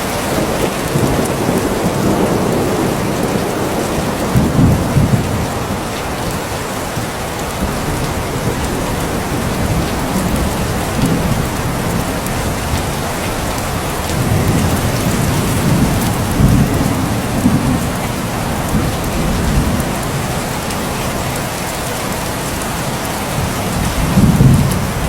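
Steady rain falling, with low rumbles of thunder rolling in several times; the loudest rumble comes near the end.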